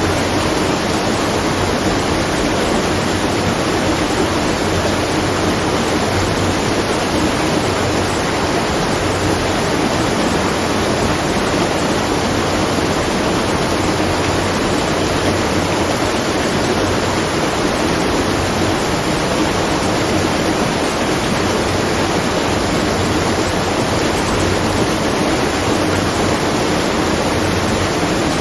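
Water rushing steadily at a watermill, an even, unbroken roar of falling and flowing water with no rhythm or separate splashes.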